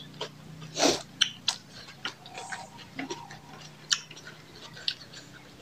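Close-up mouth sounds of people eating rice and curry by hand: irregular wet chewing and lip-smacking clicks, with a louder, longer smack about a second in.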